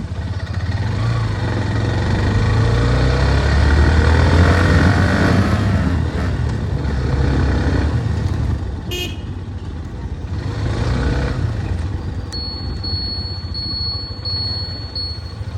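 Motor traffic running on the road, a steady low rumble of engines that swells for a few seconds, with a short vehicle horn toot about nine seconds in. Near the end a high-pitched intermittent beeping starts.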